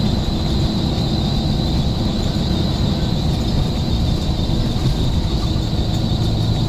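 Scania bus running steadily: a continuous low engine and drivetrain rumble with a thin, steady high whine.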